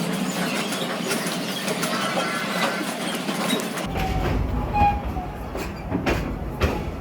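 Park passenger train running on its track: steady rolling noise with faint wheel squeal. A low rumble joins about halfway through, and a few sharp clacks of the wheels over rail joints come near the end.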